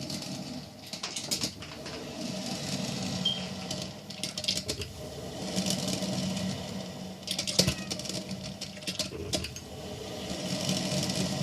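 Hamilton Beach 12-cup stainless steel electric percolator perking mid-brew: irregular clicks and taps as boiling water spurts up the stem against the lid, over a steady low hum, swelling and easing every few seconds. It is described as sounding like heavy icy snow hitting a car.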